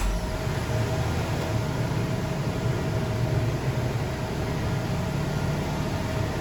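2022 Toyota Land Cruiser engine idling steadily just after being remote-started from a mobile app.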